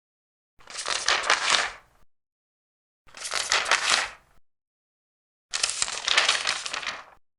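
Large paper pages being turned, three turns each with a rustle of about a second and a half, separated by gaps of silence.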